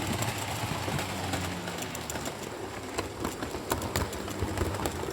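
Model Class 67 diesel locomotive train running along the track: a low electric motor hum with a rapid, irregular clicking of wheels over rail joints.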